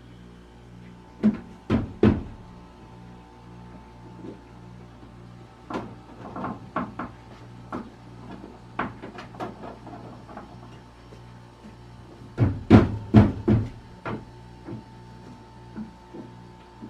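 Sheet-metal cover panels of an ice machine knocked and clicked into place on their tabs, in several clusters of sharp knocks, the loudest near the end, over a steady electrical hum.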